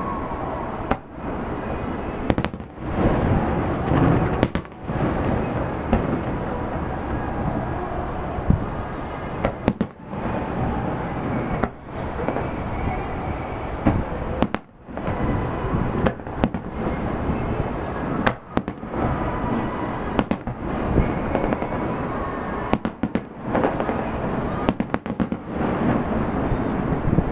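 Fireworks display in full swing: a dense, continuous run of shell bursts, booms and crackle, with many sharp bangs throughout. The sound briefly cuts out several times.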